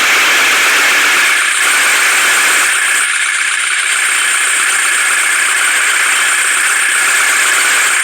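Heavy machine engine running steadily, a loud, even noise with little deep rumble.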